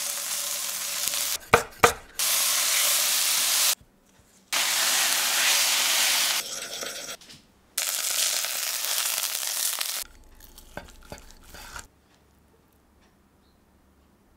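Olive oil sizzling in a frying pan as sliced red onion and garlic, then semolina-coated chicken breasts, fry, heard in several short stretches that cut off abruptly. A few sharp clicks of a spatula against the pan come about one and a half seconds in.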